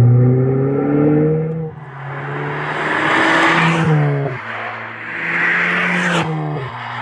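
Ford Fiesta ST's 1.6-litre turbocharged four-cylinder running through a Flowmaster American Thunder cat-back exhaust with an Outlaw muffler. The car is under way: the engine note climbs, swells with a rushing sound, then falls sharply about four seconds in and again near the end.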